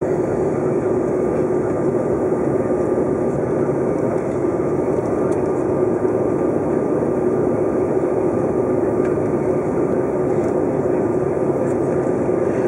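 Steady cabin noise of a Bombardier CRJ-900 regional jet in flight: the roar of airflow and its rear-mounted turbofan engines, with a constant hum running through it.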